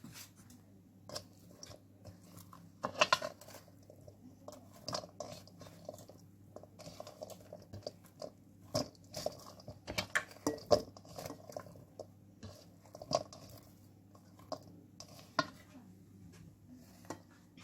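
Spoon mixing chopped onion, green chilli and tomato in a bowl: irregular clicks and short scrapes of the spoon against the bowl, with the soft crunch of the vegetables being turned.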